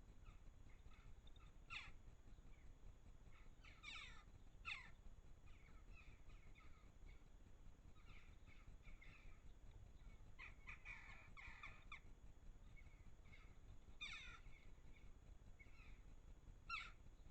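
Garden birds calling, faint: scattered short chirps throughout, with a few louder harsh calls that drop in pitch, one cluster of them about two-thirds of the way through.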